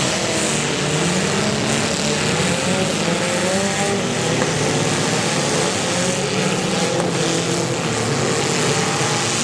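Several small demolition-derby cars' engines revving together at high throttle while the cars push against one another, a steady loud drone whose pitches waver up and down.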